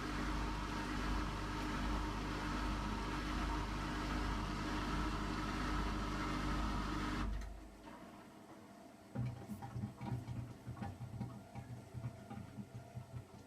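Hotpoint washing machine draining: a steady mechanical hum from the drain pump cuts off abruptly about seven seconds in. After a short lull, quieter irregular low thumps and faint clicks follow from the machine.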